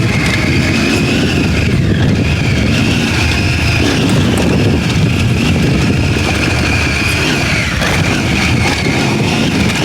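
Triumph Tiger 900 Rally Pro's inline-three engine running steadily under way on a dirt trail, with a steady high whine over a heavy low rumble of wind and riding noise on the microphone.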